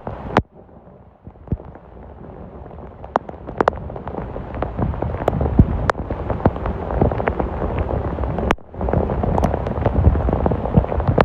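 Rain falling, with many sharp ticks of individual drops striking a close surface. It starts quieter and grows louder. About eight and a half seconds in, the sound briefly drops away and comes back.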